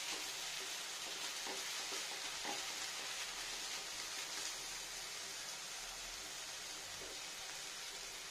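Water spinach and garlic frying in oil in a kadai over low heat: a steady soft sizzle. A few light scrapes of a slotted metal spoon stirring the greens come in the first half.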